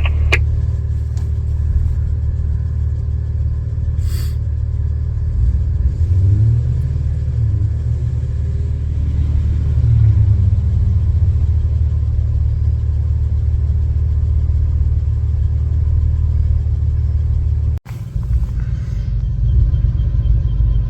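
Jeep engine working under load off-road, a steady low rumble that is revved up and eased off twice partway through as the vehicle takes a run at a trail obstacle. The sound cuts out abruptly for an instant near the end.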